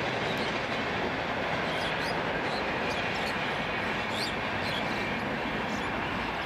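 Electric locomotive-hauled passenger train running along the line at a distance: a steady rumble and rush of wheels on rail, with short high chirps over it.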